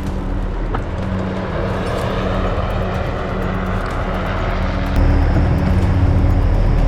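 Engine noise of a passing vehicle, a continuous rumble that swells through the middle and stays loud, over a steady low hum.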